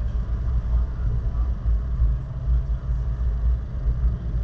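Low, steady rumble of a car on the move: road and engine noise.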